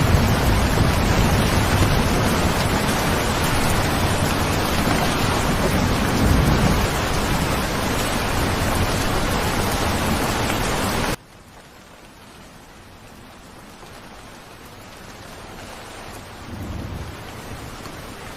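Steady heavy rain with a low rumble now and then. About eleven seconds in it cuts off abruptly to much softer rain that slowly builds, with another low rumble near the end.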